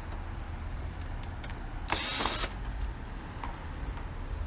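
A brief whirr of a power screwdriver backing out a screw from a plastic vacuum housing, lasting about half a second, about two seconds in, with a few light clicks of handled parts around it and a steady low hum underneath.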